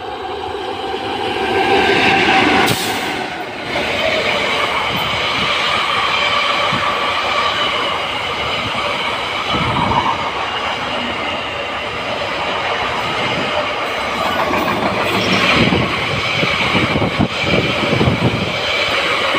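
Passenger train passing close at speed, led by a WAG 7 electric locomotive. It makes a steady rush of wheels on rail with a whining ring from the wheels that swells as the locomotive comes by about two seconds in. A few sharp knocks of wheels over rail joints come in the last few seconds.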